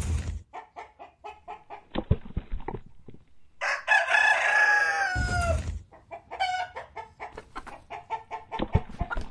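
Chickens clucking in a quick run of short notes, about four or five a second, with a rooster crowing once in a long call about four seconds in. A few low knocks sound around two seconds in and near the end.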